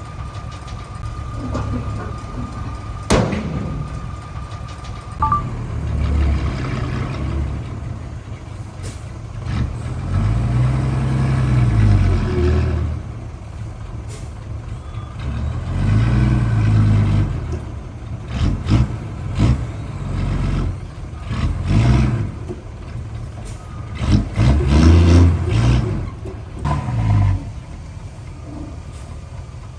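Heavy diesel engine of earthmoving machinery revving up and easing off under load three or four times, with sharp metallic clanks. A steady high tone sounds for the first few seconds and cuts off.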